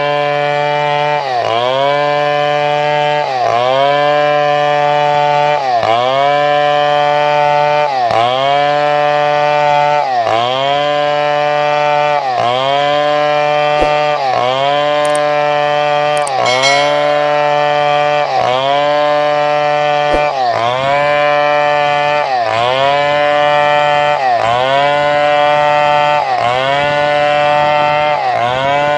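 Chainsaw running at high revs and cutting wood. Its pitch dips and recovers about every two seconds as the chain bites into the timber and the engine labours under the load.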